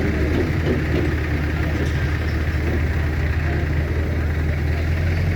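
A heavy vehicle's diesel engine idling steadily with a low, even hum.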